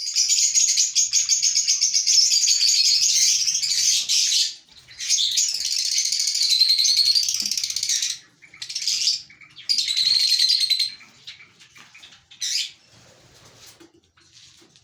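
Lovebirds chattering: long bouts of rapid, high-pitched chatter and squeaks, broken by short pauses, becoming fainter and more scattered near the end.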